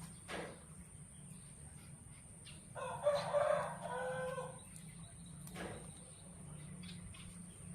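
Rooster crowing once, a call of about a second and a half starting about three seconds in, over a steady faint high-pitched whine.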